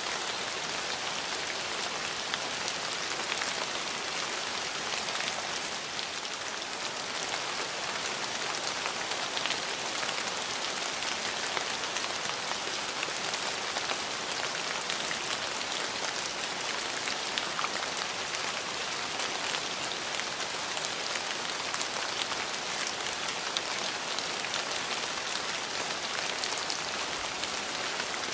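Steady rain falling on surfaces, an even hiss with many fine drop ticks throughout.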